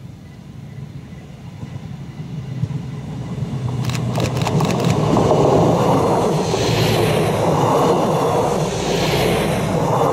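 Trenord ATR125 diesel multiple unit passing close by at speed: a low engine drone and the noise of the wheels on the rails grow louder as it approaches, with a quick run of sharp clicks about four seconds in. The loud rush of the train going past swells twice and falls away right at the end.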